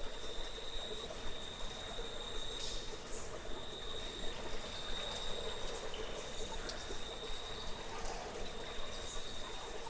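Cave ambience: an insect's steady, high-pitched trill with a few brief breaks, over a constant trickle of water and scattered small clicks.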